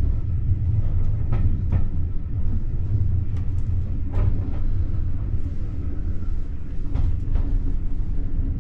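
Steam-hauled railway carriage running through a long tunnel, heard from inside the coach: a steady low rumble with occasional sharp wheel knocks, a couple of them in quick pairs.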